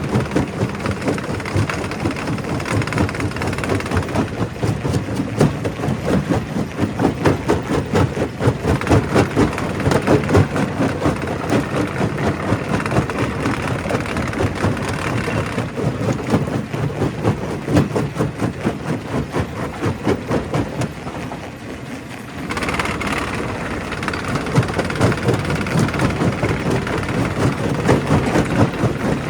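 Primary rock crusher crushing stone: a continuous clatter and grinding of rock over a steady machine drone. It eases off briefly about three-quarters of the way through, then picks up again.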